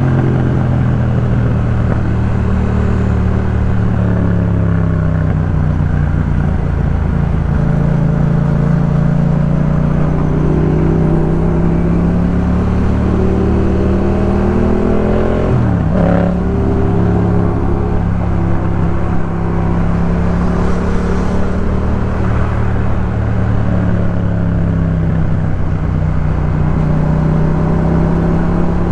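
Yamaha MT-07's 689 cc parallel-twin engine breathing through a Jeskap K4 full aftermarket exhaust, running steadily under way. About halfway through, the engine note drops briefly and then picks up again.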